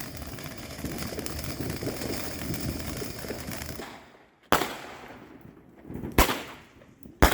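Steady rushing background noise that cuts off about four seconds in, followed by three sharp bangs of fireworks going off about a second and a half apart, each with a short echoing tail.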